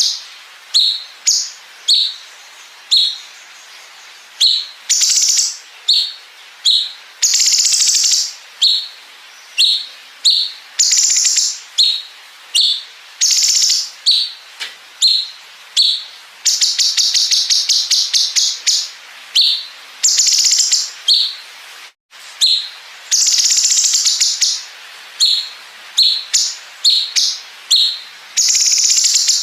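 Cucak cungkok song filled with 'bren' phrases, as used on masteran tutor tracks. Short high whistled notes alternate with long, high, buzzy phrases and rapid machine-gun-like trills of clicking notes. A split-second dropout comes about two-thirds of the way in.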